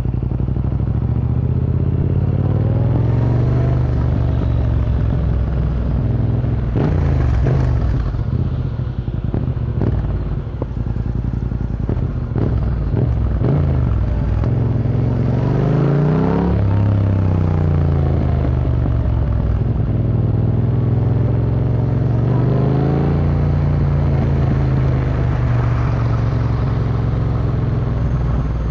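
Yamaha MT-07's 689 cc parallel-twin engine through an Akrapovic Racing Line exhaust under way, revs climbing and falling through the gears. There is a cluster of quick rev changes about a quarter of the way in and a sharp rise and drop just past the middle.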